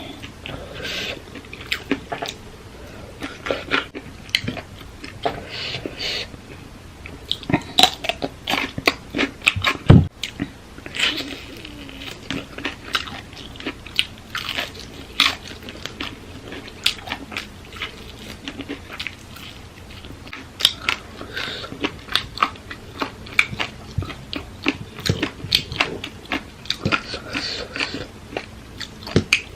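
Someone eating papaya salad, with crunching bites and chewing in quick irregular bursts throughout. There is one heavier thump about ten seconds in.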